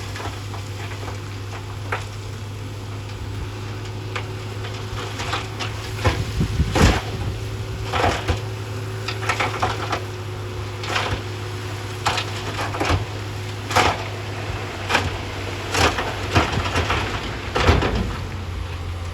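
Heavy earthmoving machine's diesel engine running steadily, with rock cracking and crunching about a dozen times, irregularly, from about six seconds in.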